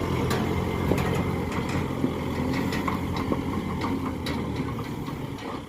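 Tractor engine running steadily, with scattered clicks and rattles over it; it grows a little quieter near the end.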